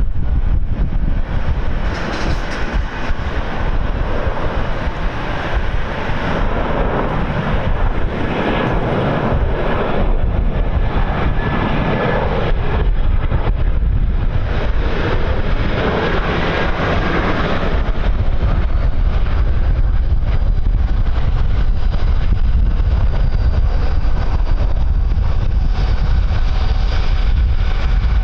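Jet airliner's engines rumbling as it passes on the runway, swelling to a roar in the middle and easing off, over heavy wind buffeting on the microphone.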